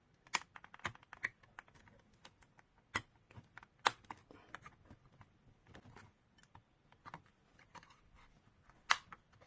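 Irregular small plastic clicks and a few sharper snaps as the upper plastic shell of a Puppy cordless vacuum cleaner is worked loose by hand, its snap-fit clips releasing.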